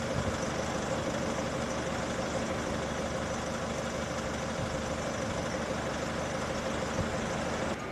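Steady vehicle engine noise with a constant hum, cut off abruptly near the end.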